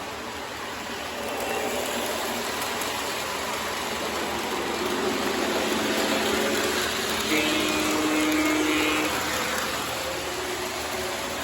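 O gauge model trains running on the layout's track: a steady rolling rumble and hiss, with a held tone lasting a little under two seconds about seven seconds in.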